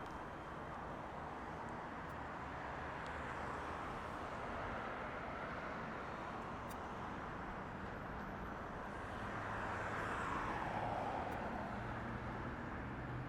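Jet aircraft engine noise over a steady outdoor rumble. It swells about ten seconds in, with a falling pitch as the plane passes.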